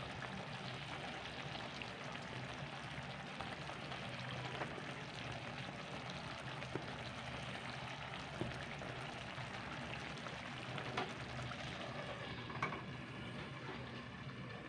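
Pork belly slices cooking in a pan in their soy-sauce marinade: a steady sizzle, with a few light clicks scattered through it.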